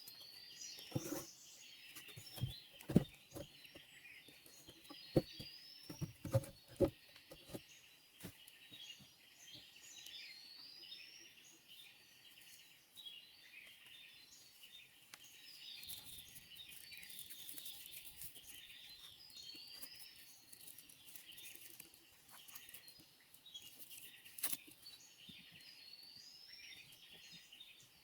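Rainforest ambience: a steady high insect chorus with a bird's short rising call repeated every few seconds. A few sharp knocks come in the first seven seconds and one more near the end.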